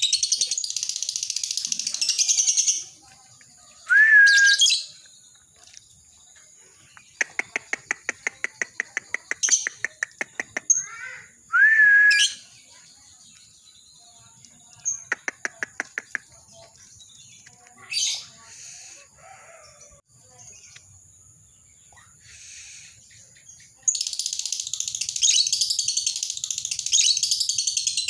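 Lovebird singing its long chattering 'ngekek' song: dense, high, rapid chatter at the start and again from about 24 s in. Between these stretches come a few rising chirps and short rattling trills.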